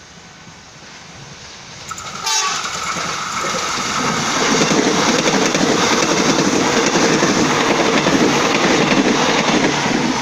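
KA Bandara airport rail link electric multiple unit passing close: a loud, steady rush of wheels on rail and carriage noise that builds from about two seconds in. A short horn note sounds just as it begins.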